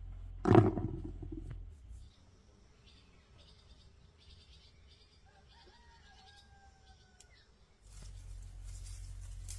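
Chickens: a loud, short squawk about half a second in, then a faint, long rooster crow that falls slightly in pitch from about five seconds in. Faint chirping from small birds runs underneath.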